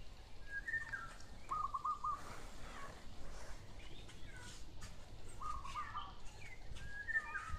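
A bird singing: short chirping phrases several times, twice including a quick trill of four or five repeated notes.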